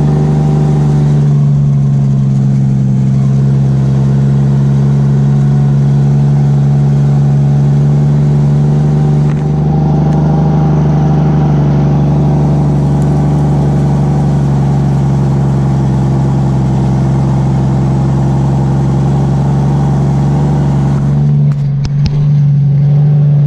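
Engine of an old International semi truck running steadily as the truck drives, a loud, even drone. There is a brief dip in the sound about nine seconds in, and some clatter near the end.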